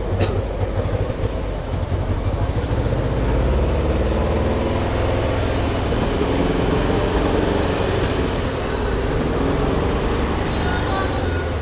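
An old car's engine running steadily, with voices starting near the end.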